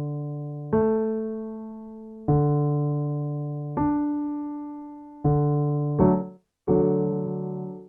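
Piano playing the reference notes and chords for a fifth-and-octave vocal warmup exercise. A new note or chord is struck about every one and a half seconds, and each is left to ring and fade.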